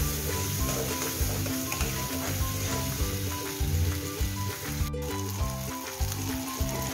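Masala paste sizzling and frying in hot oil in an aluminium kadai, stirred and scraped with a metal spatula, as it cooks down until the oil separates. Soft background music plays underneath.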